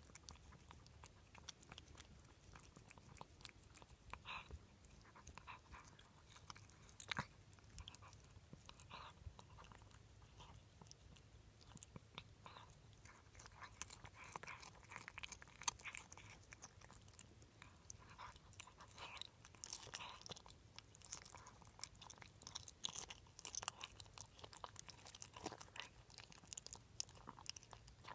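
A pet chewing and crunching food: quiet, irregular small crunches and clicks throughout.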